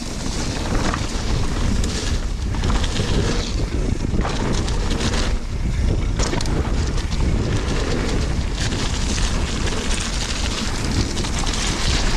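Wind rushing over a mountain biker's camera microphone while riding a muddy downhill trail, with tyre rumble and frequent short clatters from the bike over bumps.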